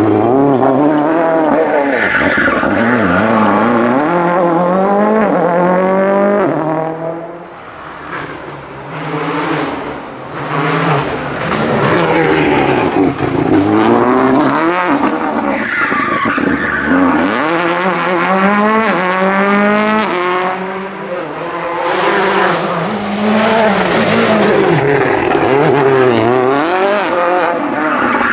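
Rally car engines revving hard, their pitch climbing and dropping again and again through gear changes and lifts, with tyres skidding. The sound eases off briefly about a quarter of the way through, then builds up loud again.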